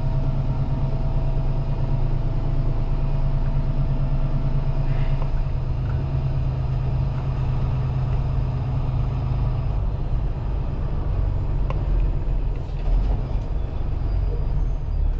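Semi-truck diesel engine running with a steady low rumble, with a faint steady whine over it that stops about five seconds in.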